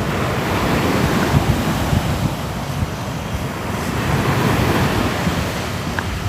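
Ocean waves breaking and washing on a shore in a continuous surf, swelling and easing gently.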